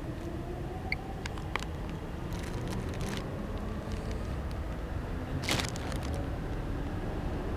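Steady low rumble of road traffic, with a few faint clicks about a second in and a brief louder rustle about five and a half seconds in.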